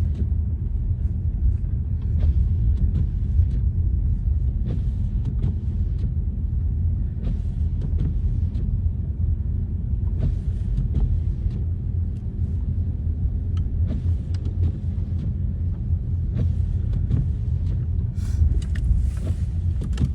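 Car driving, heard from inside the cabin: a steady low rumble of engine and tyres, with scattered faint clicks and ticks.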